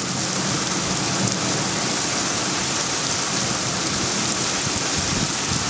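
Heavy thunderstorm rain falling steadily: a dense, even hiss of rain on surfaces.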